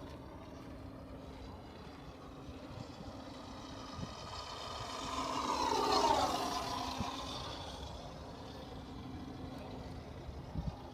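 Radio-controlled Seagull Models Sea Fury flying past, its onboard engine-sound system and propeller swelling to a peak about six seconds in and dropping in pitch as it goes by.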